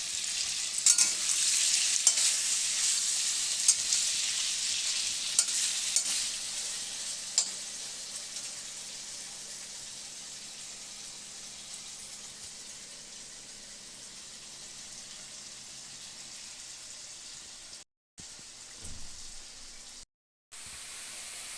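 Marinated chicken pieces sizzling as they fry in hot oil, with a few sharp clicks of a spatula against the pan in the first several seconds. The sizzle slowly dies down and cuts out twice briefly near the end.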